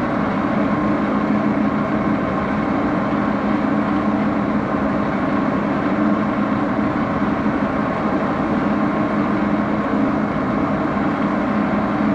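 Axelson engine lathe running steadily at speed, with a constant mechanical hum from its spindle drive.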